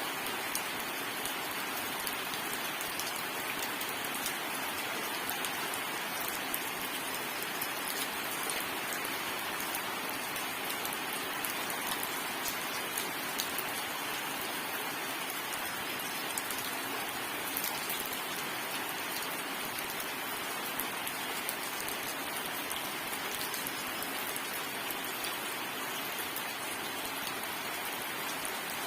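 Steady heavy rain falling on a surface: an even hiss with many small, sharp drop ticks, and no thunder.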